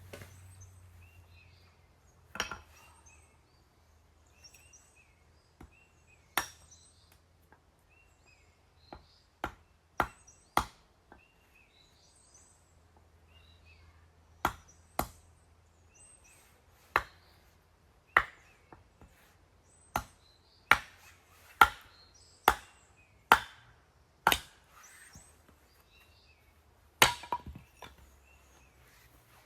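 Firewood being chopped: about twenty sharp, irregular blows of a blade into wood, mostly a second or two apart, with the strokes coming faster and harder in the second half.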